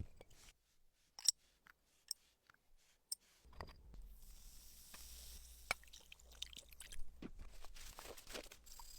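Small hand-work noises: three sharp clicks about a second apart, then a run of crunchy scraping and crackling with scattered clicks over a faint steady hum, as small parts are handled and worked.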